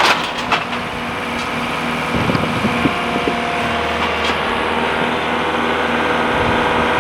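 Tractor engine running steadily, with a few sharp knocks over it.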